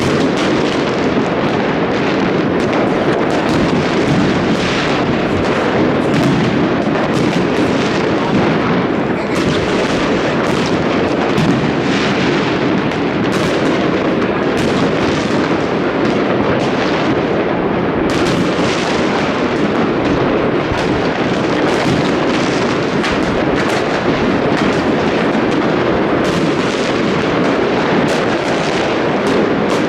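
New Year fireworks and firecrackers going off without a break: a dense, continuous barrage of overlapping bangs and crackles.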